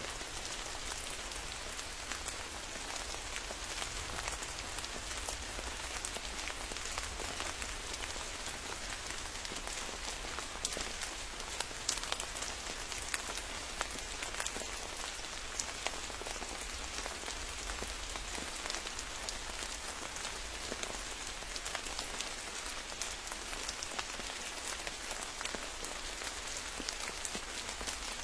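Steady rain falling in a forest, with many separate drops ticking through the even hiss of the downpour.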